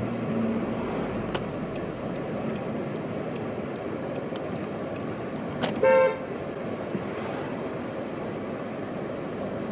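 Steady traffic and car noise, with one short car-horn toot about six seconds in.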